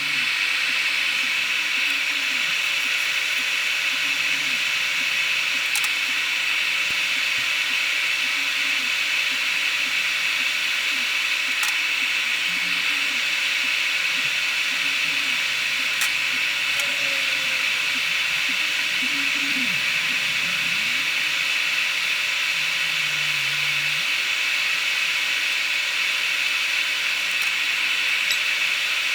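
Hot air rework station blowing a steady hiss of hot air onto a phone logic board, reflowing it with low-melt solder.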